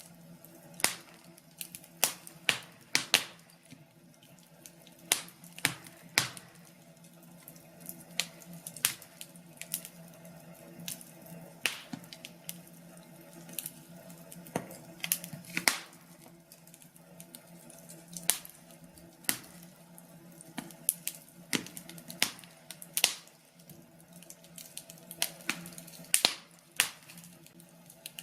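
Wood fire crackling in a fireplace, with irregular sharp pops and snaps over a faint steady hum.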